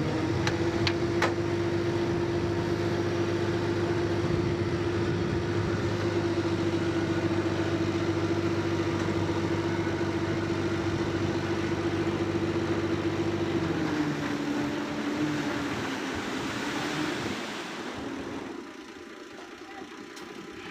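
Heavy diesel engine of earthmoving machinery running at a steady speed, then dropping in pitch and fading away about fourteen seconds in. A couple of sharp clicks sound about a second in.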